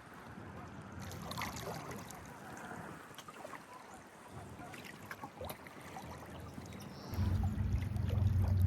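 Water trickling and splashing softly around a kayak drifting on the river, with small drips now and then. About seven seconds in, low background music comes in and gets louder.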